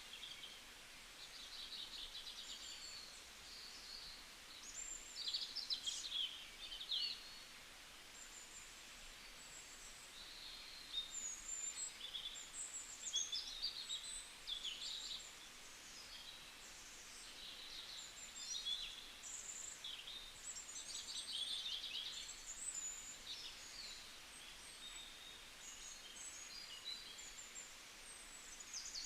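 Birds singing and chirping: a busy chorus of high, quick trills, chirps and short whistles overlapping one another.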